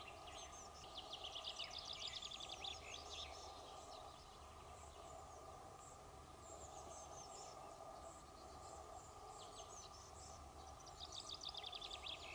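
A small songbird singing faintly in quick trilled phrases, one about a second in and another near the end, with scattered chirps between, over a steady background hiss.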